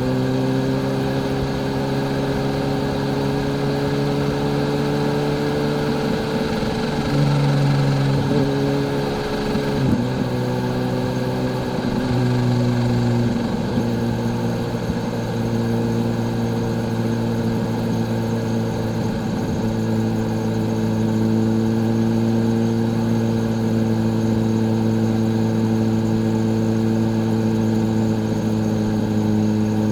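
Kawasaki Z H2's supercharged inline-four engine running at steady, moderate revs while riding. Its pitch wavers and dips briefly a few times in the first half, then holds level.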